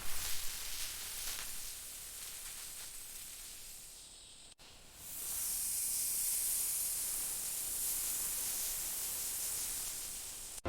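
Steady hissing noise with no tone in it. It drops out for a moment about four and a half seconds in, then comes back louder and brighter.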